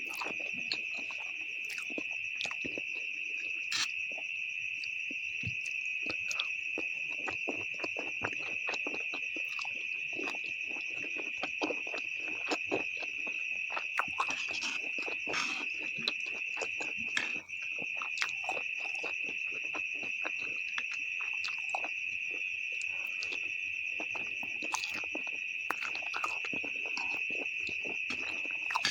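Close-miked eating of instant noodles with beef: many short wet clicks of chewing and slurping. Under them runs a steady, high-pitched trill or whine that is the loudest thing throughout and drops out briefly a little past halfway.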